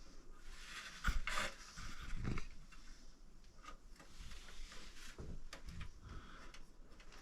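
Scattered light clicks, taps and rustling from small hardware (screws and light-fixture mounting parts) being handled, with the sharpest knocks about one second in and again a little after two seconds.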